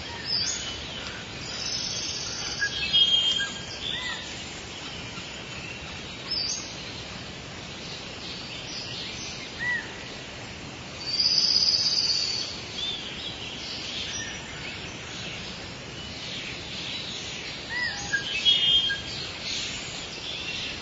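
Wild birds chirping and calling at intervals over a steady background hiss, with a longer, louder call about halfway through.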